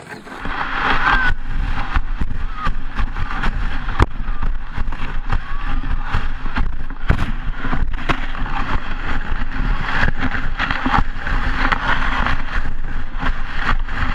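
Sled running down a packed snow track, heard from a camera mounted on its front: a steady rushing scrape and rumble of the sled over the snow, with many knocks and jolts from bumps along the run.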